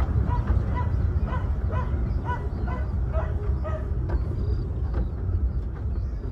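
A 15-inch gauge passenger train rolling slowly, giving a steady low rumble from the carriage running on the track. Short high squeaks or yelps repeat over it at about two a second.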